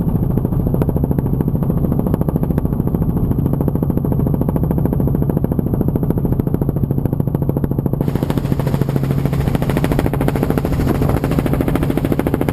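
Helicopter's engine and rotor running steadily and loud, with a fast, even pulsing from the blades. About eight seconds in, more hiss comes in higher up.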